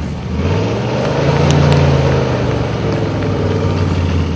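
A car engine runs at low revs and is revved up gently, its pitch rising over the first two seconds and then easing back down. It is most likely the Best of Show 1967 Bizzarrini Strada's Chevrolet V8 as the car is brought forward.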